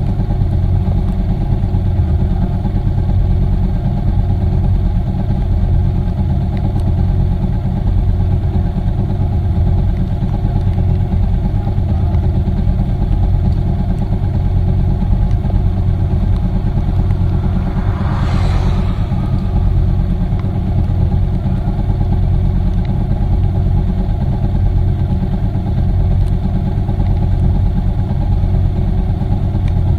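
Motorcycle running at a steady cruising speed on the highway, its engine a constant drone under road and wind noise, with a brief hiss swelling and fading about two-thirds of the way through.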